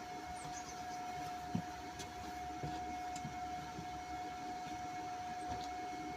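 Steady machine hum with a constant mid-pitched whine, with a few faint clicks and light taps.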